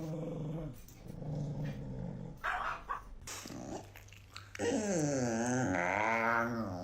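A dog growling in low, drawn-out grumbles, then a longer, louder wavering growl-like call from about four and a half seconds in.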